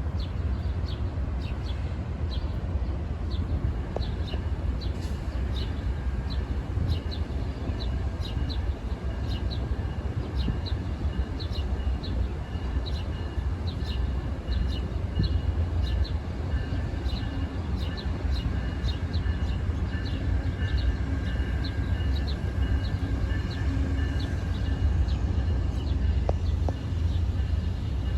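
A train rumbling by steadily, with short high chirps repeating about twice a second above it.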